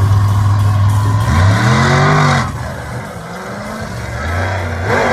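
Monster truck engine running loud, revving up and back down about a second and a half in, then dropping away to a lower level.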